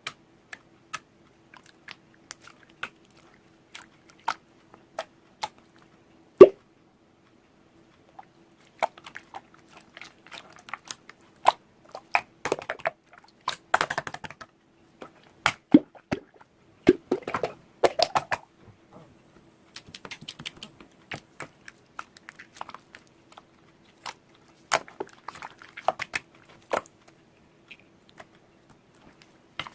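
Close-miked crunching and crisp clicks: scattered single clicks at first, then denser crackly clusters, over a faint steady hum.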